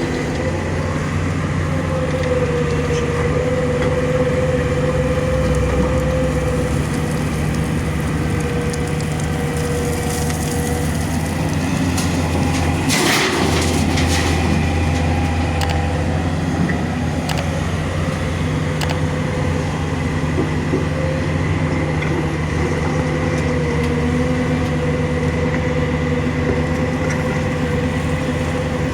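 Heavy machinery running steadily: a low engine drone with a constant whine held over it. There is a brief louder noise about halfway through.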